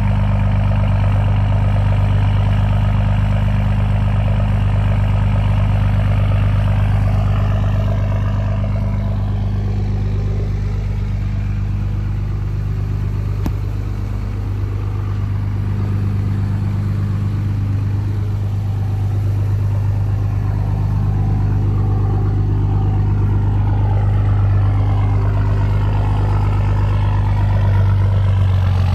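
2005 Dodge Ram's 5.9 Cummins inline-six turbodiesel idling steadily through a fully straight-piped exhaust, still cold just after a cold start in 19-degree weather.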